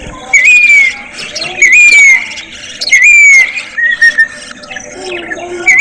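A caged budgerigar calling: the same short call, rising and then falling, repeated about every 1.3 s, with a softer, lower call about four seconds in.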